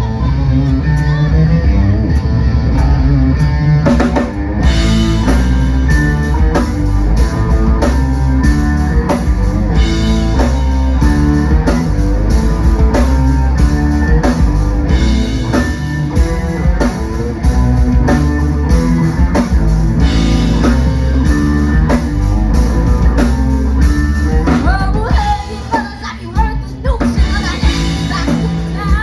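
Live rock band playing at concert volume: a drum kit beating a steady rhythm under amplified guitars, with the level dropping briefly near the end.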